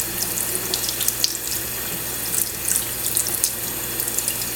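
Kitchen sink tap running steadily, the stream splashing in the sink with many small, irregular spatters.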